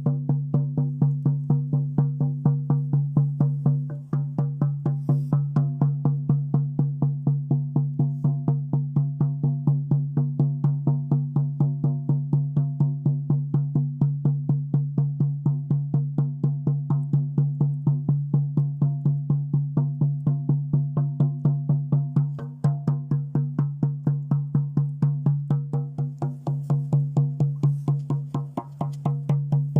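A shaman's drum beaten in a steady, fast, even rhythm of several strokes a second. Each stroke rings at the same low pitch, with a brief break in the beat about four seconds in and twice more near the end.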